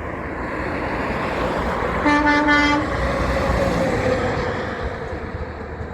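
A big truck passing close by, its road and engine noise swelling and fading, with one short horn blast of under a second about two seconds in.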